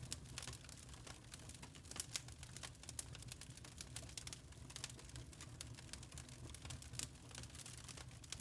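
Burning charcoal crackling, with many small irregular pops and ticks over a low, steady rumble.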